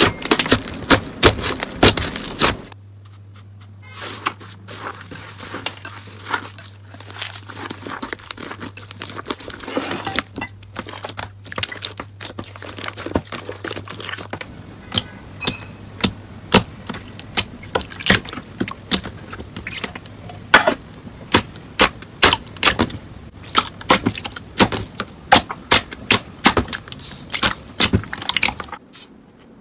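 Slime being squeezed and pressed by hand: a fast, irregular run of sharp clicks and crackles.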